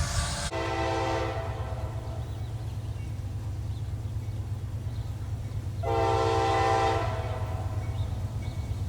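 Diesel locomotive's air horn sounding two blasts, a short one about half a second in and a longer one about six seconds in, over the steady low rumble of the train.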